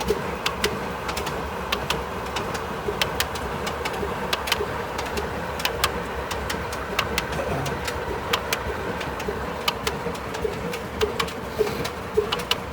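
Old stationary 'kala' diesel engine running steadily with a low hum and a run of sharp ticks, two or three a second.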